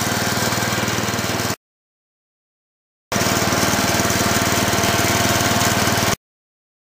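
Cub Cadet 106's 10 hp Kohler K241 single-cylinder engine running steadily with a rapid, even putter. The sound cuts off abruptly to dead silence twice: for about a second and a half after the first second and a half, and again near the end.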